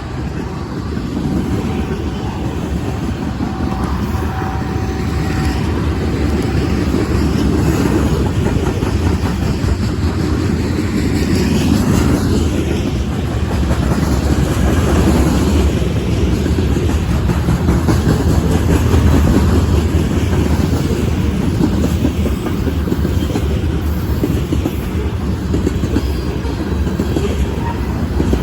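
Freight train cars rolling past, with steady rumbling and clickety-clack of steel wheels over the rail joints, growing louder over the first several seconds and then holding steady.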